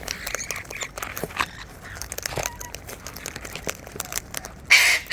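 Wild birds crunching and cracking food in their beaks, a steady scatter of small sharp cracks. Near the end a loud harsh bird screech breaks in.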